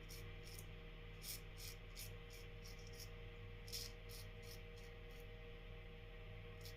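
Merkur Futur adjustable safety razor scraping through lathered stubble in short, irregular strokes: faint high-pitched scratches, about a dozen across the span, over a steady low room hum.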